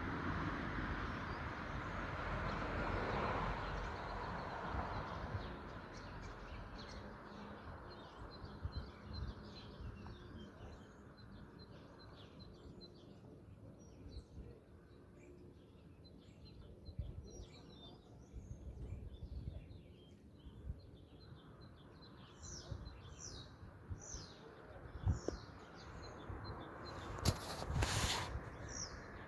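Small birds chirping and calling, many short high notes scattered throughout. A steady rushing noise is loudest at the start and fades away over the first few seconds.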